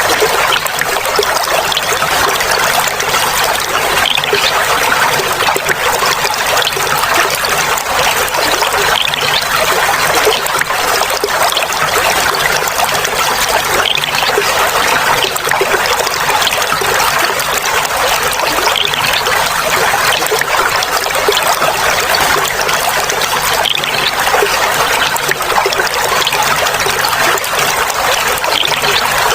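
Clear flowing water trickling and babbling steadily, without pause.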